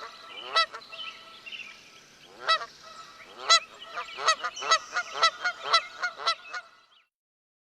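A bird's repeated loud honking calls, scattered at first and then coming about three a second, stopping shortly before the end.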